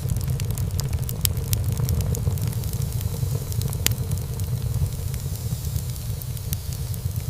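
Wood fire burning in a fireplace: a steady low rumble of flame with frequent sharp crackles and pops from the burning wood, and one louder pop about four seconds in.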